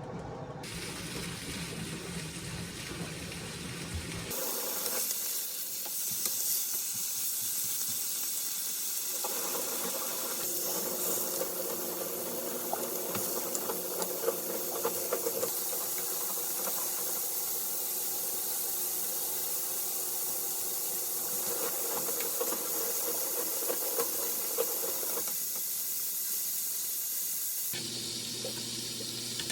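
Food sizzling in a frying pan, a steady hiss with fine crackles, starting about four seconds in and stopping shortly before the end.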